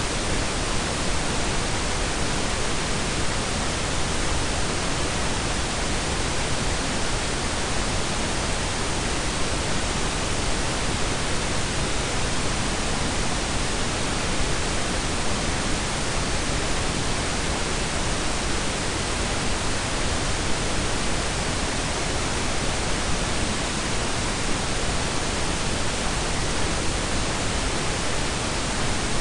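Steady blended pink and brown noise: an even, unchanging hiss with a deep rumble beneath it.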